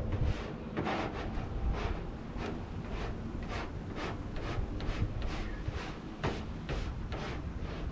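Vinyl wrap film being smoothed onto the truck's body panel with a squeegee: a steady run of short rubbing swipes, about two a second.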